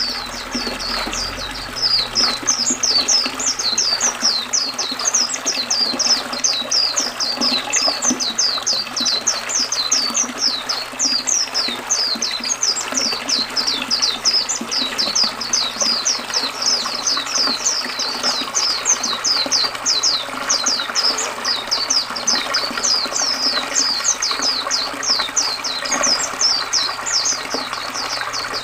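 White-eye (pleci) singing a fast, unbroken stream of high, thin, downslurred notes, several a second, over the steady rush of flowing river water.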